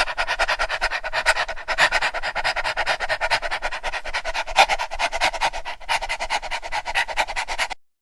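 Dog panting rapidly in quick, even breaths; it cuts off suddenly near the end.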